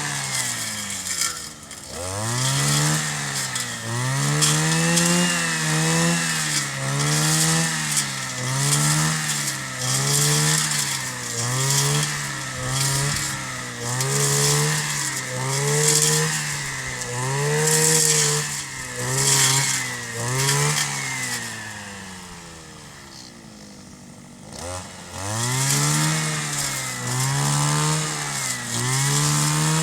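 Kioritz 260 brush cutter's small two-stroke engine being revved up and down over and over, rising and falling in pitch about once a second. About three-quarters of the way through it drops to a low idle for a couple of seconds, then revs again.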